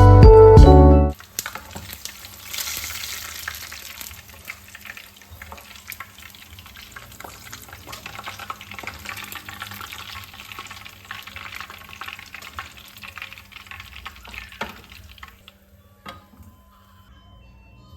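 Food sizzling in hot oil in a pan, a faint steady hiss with many small crackles that fades out near the end. A background song cuts off about a second in.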